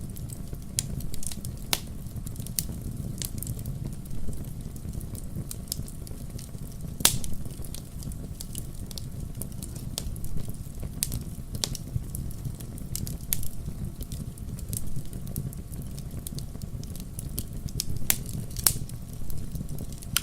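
Firewood burning in a fireplace and crackling: irregular sharp pops over a steady low rumble of the flames, with the loudest pop about seven seconds in.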